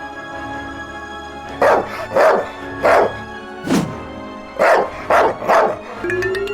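A dog barking about seven times in quick, uneven succession over steady background music.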